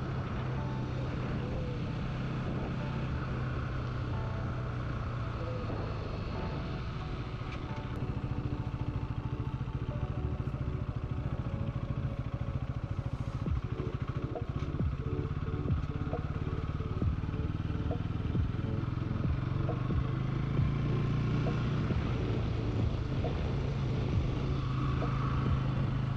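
Bajaj Pulsar NS200 single-cylinder motorcycle engine running steadily while riding, growing a little louder about seven seconds in.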